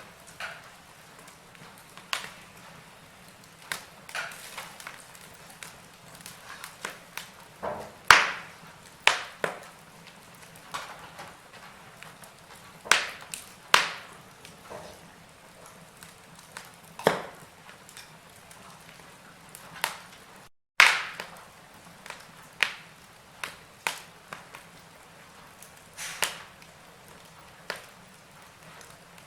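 Wood fire burning in a fireplace, crackling with irregular sharp pops every second or two over a soft hiss; the loudest pops come about a third of the way in and again about two-thirds of the way in.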